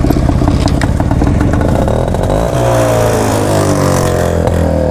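1972 Jawa motorcycle's two-stroke single-cylinder engine running just after starting, rising in a brief rev about two seconds in and then slowly settling back. The bike has just been coaxed into starting after standing unused for about a month, with fuel flooding over.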